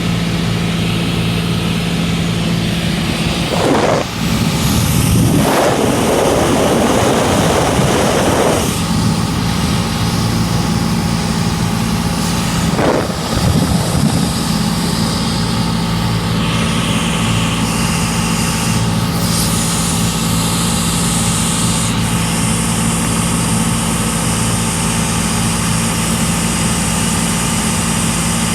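Cessna 182's piston engine and propeller droning steadily, heard from inside the cabin. Brief surges of rushing noise come about four to eight seconds in and again around thirteen seconds.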